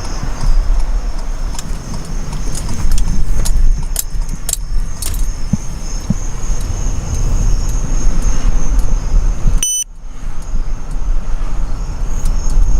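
Steady low road rumble of a car being driven, with scattered light clicks and rattles. A short electronic beep sounds about ten seconds in.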